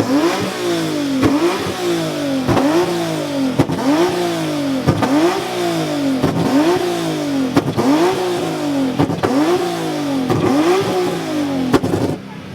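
Car engine revved over and over, about nine times, each rev climbing quickly in pitch and falling back, with a sharp snap at the start of each rev.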